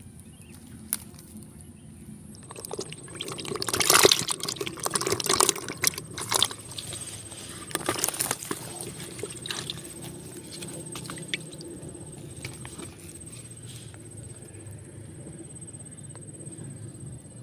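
Water splashing and sloshing in irregular bursts, loudest about four to six seconds in, then settling to a fainter steady wash.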